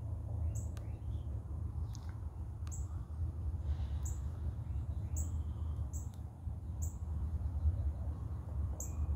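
A small bird chirping repeatedly, short high chirps about once a second, over a steady low rumble.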